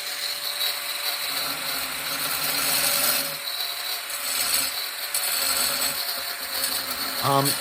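Angle grinder running and scoring a shallow line around a traced circle in a stone tile: a steady whine over a gritty hiss of the blade on stone, dipping a little as it is eased on and off the cut.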